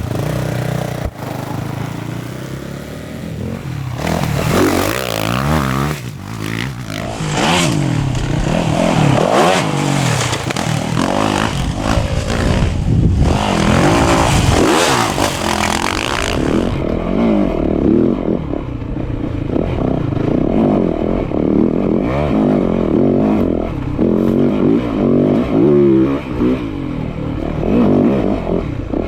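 Dirt bike engines revving up and down through the gears as enduro bikes race through the course, with the pitch rising and falling over and over. A loud hiss and clatter sits over the engines for the first half and cuts off suddenly partway through, after which the engines rev on alone.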